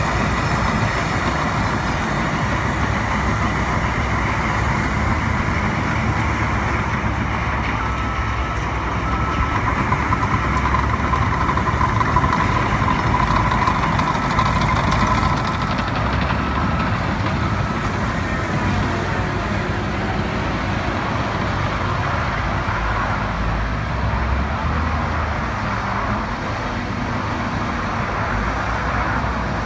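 Heavy earth-moving equipment running steadily with a low engine rumble. Partway through, a reversing backup alarm beeps about once a second for around ten seconds.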